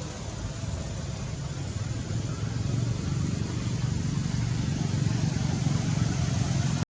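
Low, steady engine rumble of a motor vehicle running close by, growing slowly louder, then cut off abruptly near the end.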